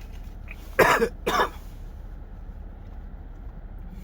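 A person coughing twice in quick succession, about a second in.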